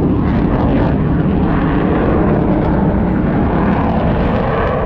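Airshow aircraft flying past: a loud, steady rumble of engine noise that holds an even level throughout.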